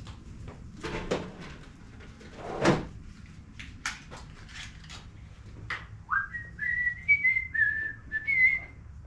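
Scattered clicks and knocks of parts and tools being handled, then a man whistling a short tune of a few stepped notes for about three seconds, starting about six seconds in.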